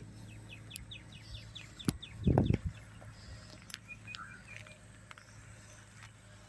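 A small bird calling in a fast chattering trill of high chirps, about six a second, for the first few seconds, then a few single higher and lower notes. A brief low noise sounds a little over two seconds in.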